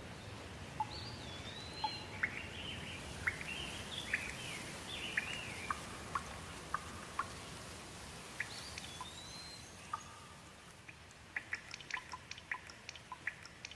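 Steady rain hiss with songbirds singing short whistled and sliding phrases over it. In the last few seconds the hiss eases and quick, sharp water drips take over.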